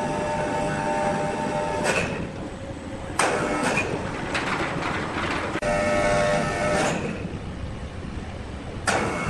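Sawmill machinery running with a steady rumble. A whining saw tone comes and goes twice, and there are a few sudden knocks.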